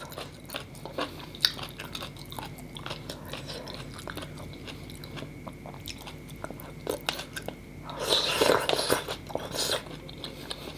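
A person chewing a mouthful of noodle soup, with many small wet mouth clicks. About eight seconds in, a louder breathy rush of noise lasts about a second and a half.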